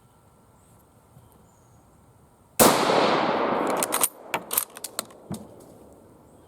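A single shot from a Japanese Type 38 short rifle in 6.5x50mm Arisaka, with a long echoing tail. Then a quick run of sharp metallic clicks and clacks as the bolt is worked to eject the case and chamber the next round.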